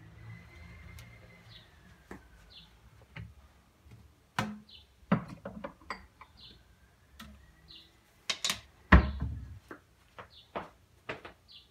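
A small bird chirping again and again, short high calls about once a second. Several sharp clicks and knocks come in the second half, the loudest about nine seconds in.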